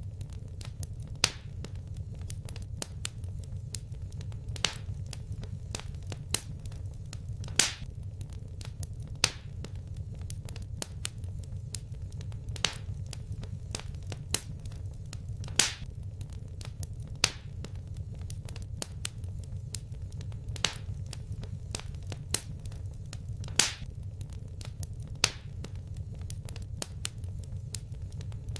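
Wood fire crackling: sharp pops and snaps at irregular intervals, a handful of them much louder, over a steady low rumble.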